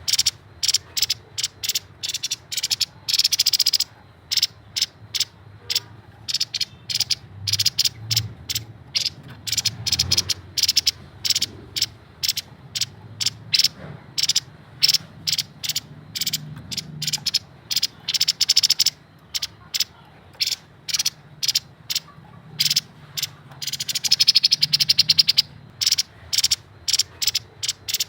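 Grey-headed babbler (tepus kepala abu) singing energetically: rapid runs of short, sharp notes, many a second, in repeated bursts separated by brief pauses.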